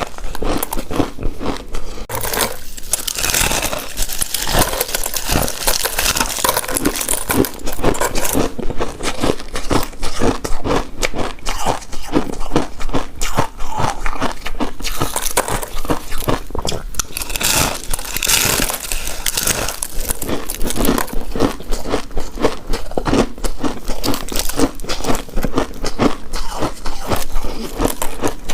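Close-miked eating: a person biting and chewing, with many short crunchy and crackly clicks in quick succession.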